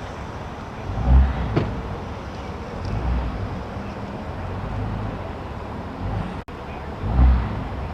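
Road vehicle noise with low rumbles swelling about every two seconds. The sound drops out sharply for an instant about six and a half seconds in.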